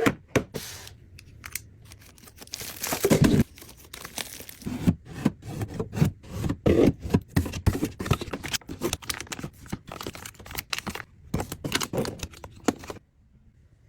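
Packaging being torn open and crinkled by hand, a dense run of rustling and crackling with a loud tearing burst about three seconds in. It stops abruptly about a second before the end.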